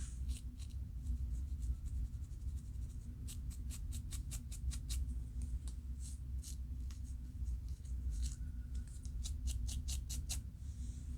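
Dry, quick scratching strokes on a scalp, scraping up dandruff flakes. There is a fast run of short scratches a few seconds in and another near the end, over a steady low hum.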